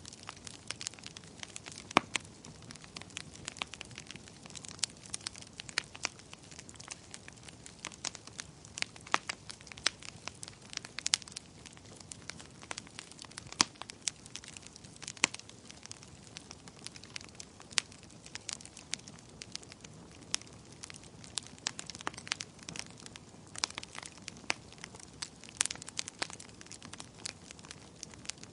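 Wood fire crackling: sharp pops and snaps, several a second and irregular, over a low steady hiss of burning.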